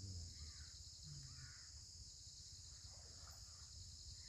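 Insects, such as crickets, chirring steadily in a high continuous band. A few faint short calls rise above it, about half a second, a second and three seconds in.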